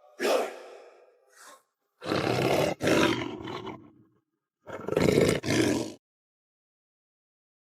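Werewolf roars in four or five loud, rough bursts, then cut off abruptly about six seconds in.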